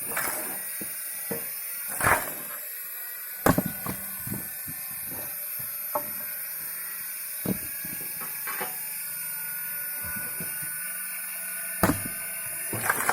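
A screw log splitter's washing-machine motor runs with a steady high whine. Several sharp, irregular knocks and cracks of firewood sound over it.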